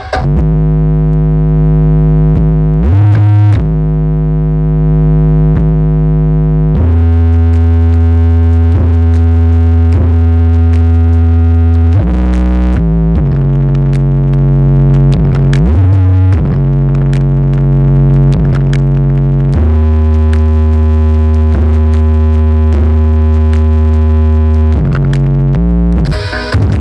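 Loud electronic music over a large sound system: long, deep synthesizer bass notes held for a few seconds each, stepping to a new pitch with each change.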